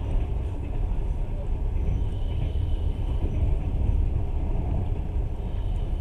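Passenger train running, a steady low rumble of wheels and carriage heard from inside the car.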